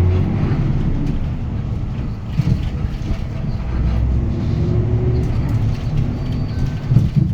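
Hyundai Green City city bus heard from inside the cabin while driving: its D6GB diesel engine drones low and steady, with road noise and a couple of short rattling knocks from the body.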